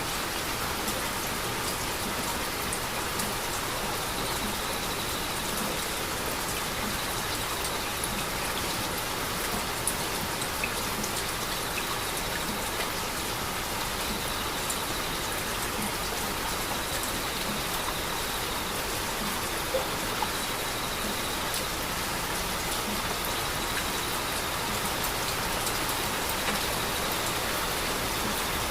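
Heavy rain falling steadily, with scattered individual drops tapping close by.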